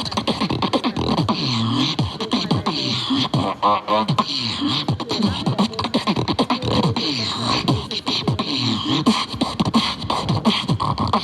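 Beatboxing: a fast, continuous stream of vocal kick, snare and hi-hat sounds over repeated swooping bass tones, with a short buzzing pitched vocal tone about four seconds in.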